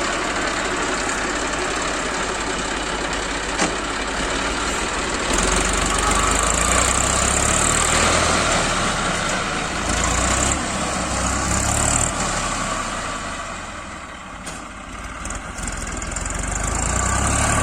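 Tractor engine running, its level rising around the middle, dipping briefly near the end and then rising again.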